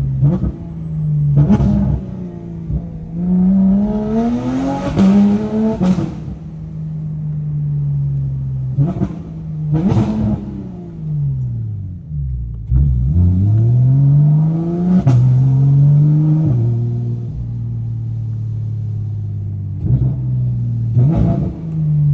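Porsche GT3 RS naturally aspirated flat-six through a straight-piped Dundon race exhaust, idling steadily and being revved in short sharp blips, with one longer climb in revs about four seconds in.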